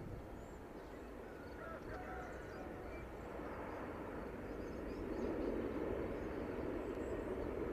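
Distant drone of a Lockheed CC-130J Hercules's four turboprop engines on approach, a steady rumble that grows louder about halfway through. Faint bird chirps are heard early on.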